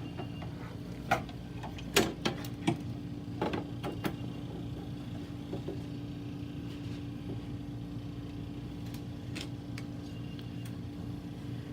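Metal parts of a Blizzard machine being handled as a bracket is fitted back on: a few sharp clicks and knocks in the first four seconds, then none. A steady hum runs underneath.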